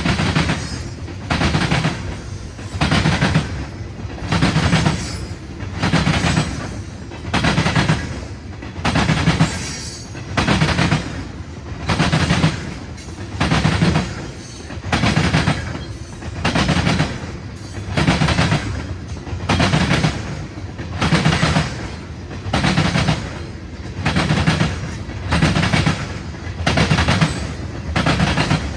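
A CN freight train rolling past. The wheels of each car bang over the track in a steady, even clickety-clack, one loud group of clacks about every two seconds.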